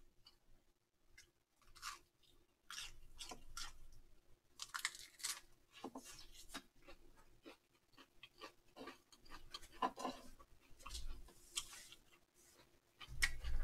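A person biting into and chewing a homemade mini hamburger on a soft dinner roll with lettuce, ham and paprika: a run of short, irregular chewing sounds.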